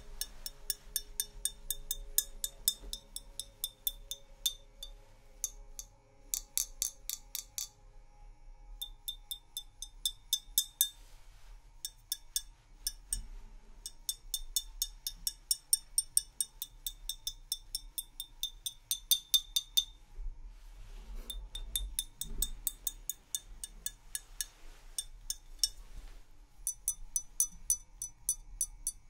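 Fingernails tapping quickly on glass, each tap ringing briefly at the same high pitch, in runs of several taps a second broken by short pauses.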